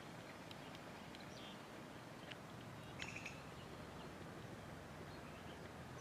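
Faint open-air ambience with a few short bird chirps, the clearest a little after the middle.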